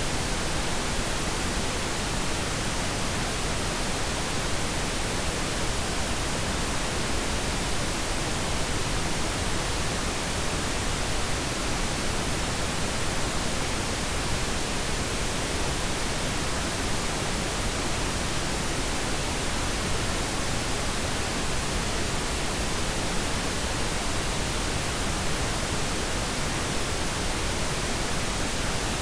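Steady pink noise: an even, unchanging hiss spread across all frequencies, with no events or changes.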